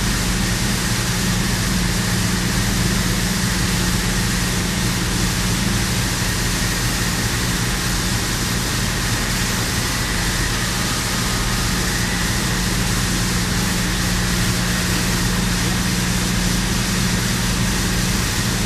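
Steady machinery noise: a low, even hum under a loud, constant hiss, with no change or break.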